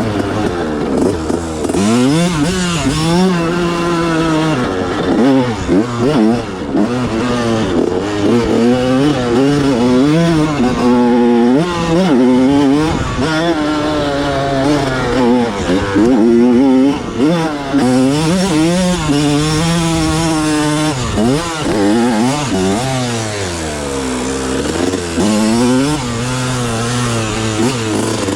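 1987 Honda CR125's single-cylinder two-stroke engine being revved hard, its pitch rising and falling over and over as the throttle is opened and closed.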